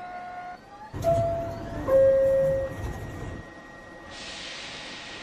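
NYC subway train's two-tone door-closing chime, a higher tone and then a lower one, starting with a knock about a second in over the train's rumble. A steady hiss sets in near the end.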